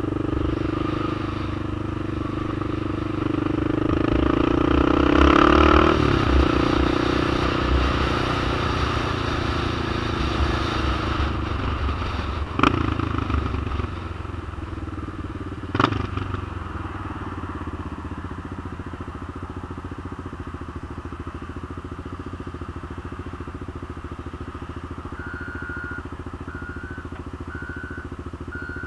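Honda XR650L single-cylinder four-stroke engine of a trike running, its pitch rising as it accelerates a few seconds in, then dropping to a lower, steadier running as it slows. Two sharp clunks sound a few seconds apart midway, and near the end a short high beep repeats about once a second.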